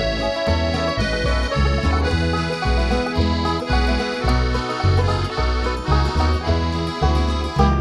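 Accordion playing the melody of an old-time tune, with string bass notes underneath about twice a second.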